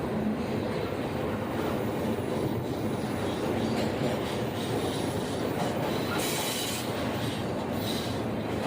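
Train rolling along the track: a steady rumble of wheels on rails, with a faint high wheel squeal about six seconds in.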